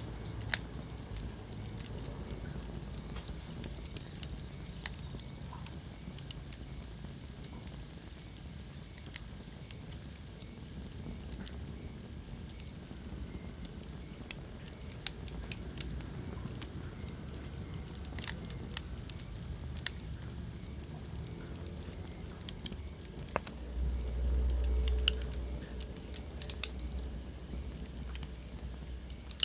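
Wood fire burning in a fireplace, crackling with frequent sharp pops and snaps over a steady low hiss. A low rumble swells for about two seconds near the end.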